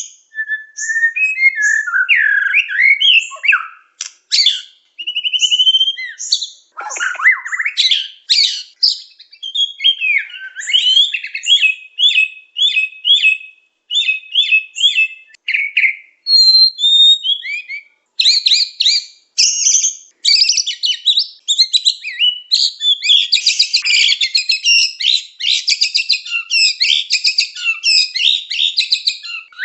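Murai songbird singing nonstop: a long, varied song of rapid whistled and chattering phrases with quick repeated notes and short pauses, the kind of full, continuous song used as a lure to trap wild birds.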